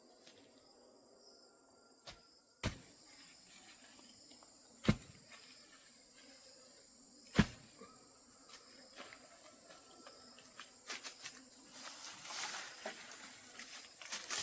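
Three sharp knocks about two and a half seconds apart, the third the loudest, followed by lighter clicks and rustling, over a steady high insect drone.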